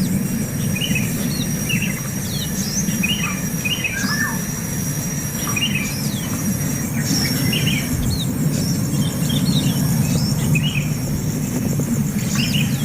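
Small birds chirping: short, scattered chirps, several a second at times, over a steady high-pitched whine and a louder low hum.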